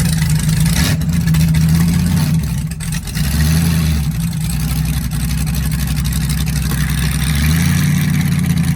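LS-swapped Ford Crown Victoria's V8 engine running at a loud idle, freshly started and warming up. Its note shifts slightly about three and a half and seven and a half seconds in.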